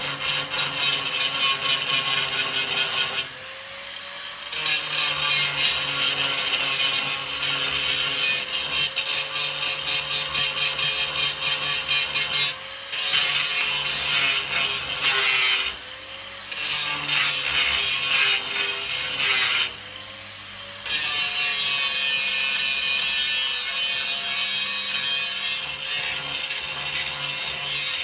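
Electric angle grinder grinding the steel sheet metal of a 1955 Chevy truck, with a steady motor whine under a loud grinding hiss. Four times it comes off the metal briefly and the grinding drops away, the motor pitch swinging as the load comes off and back on.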